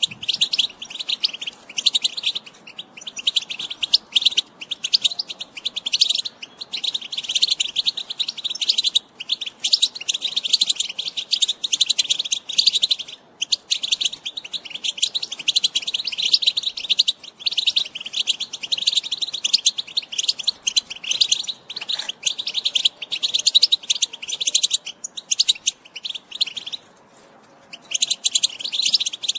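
European goldfinch twittering: a fast, continuous chatter of high notes, broken only by short pauses about 13 s in and again near 27 s.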